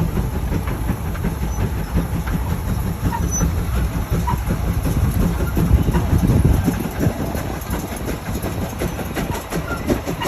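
Large steam traction engine running, a steady mechanical clatter with a dense low rumble.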